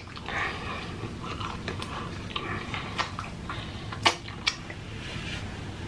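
Close-miked chewing of a mouthful of french fries dipped in ranch sauce, with wet mouth sounds and a few sharp wet clicks, the clearest about three and four seconds in.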